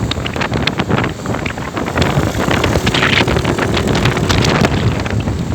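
Wind buffeting the microphone over a low rumble, with many sharp crackles throughout.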